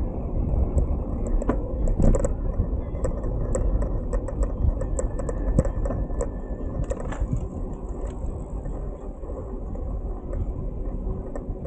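Wind rumbling over the microphone of a moving bicycle, with many small clicks and rattles scattered throughout.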